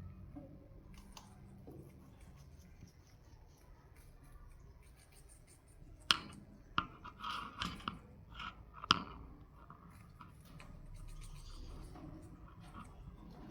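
White Indian ringneck parakeet making a quick cluster of sharp clicks and short harsh notes, about six to nine seconds in, over faint background.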